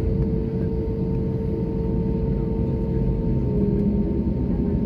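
Airbus A320neo cabin noise: a steady low engine and airflow rumble with a steady whine that drops slightly in pitch about three seconds in.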